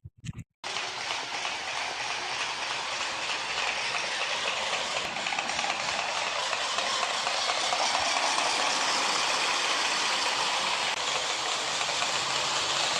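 Steady running noise of a train with a light clatter, starting about half a second in after a brief silence and growing slightly louder.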